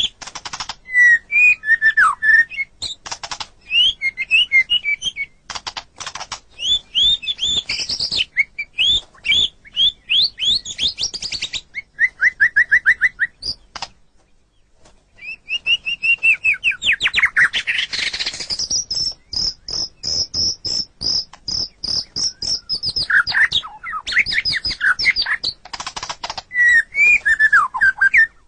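White-rumped shama singing a long, varied song of fast trills, clicking notes and whistled glides, with a short pause about halfway through and a run of evenly repeated high notes soon after.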